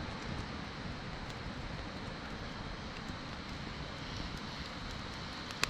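Steady outdoor background noise: an even hiss with a faint, thin high tone running through it, a few faint ticks, and one sharp click near the end.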